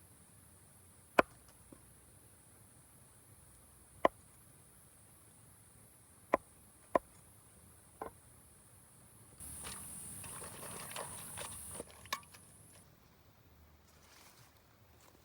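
Sharp single clicks or snaps every second or few, with a rustling, scraping stretch of about two seconds near the middle. Under them runs a steady high hiss that stops about two-thirds of the way through.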